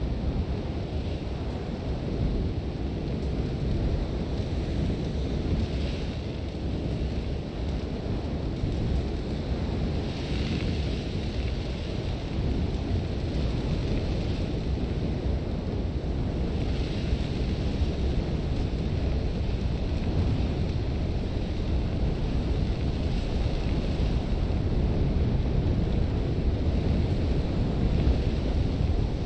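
Strong sandstorm wind blowing with a deep, continuous rumble, with gusts of hissing blown sand, most clearly about ten and seventeen seconds in.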